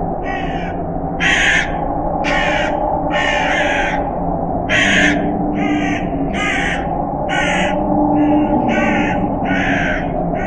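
Crows cawing, about a dozen harsh caws roughly one a second, over a steady low howl of wind.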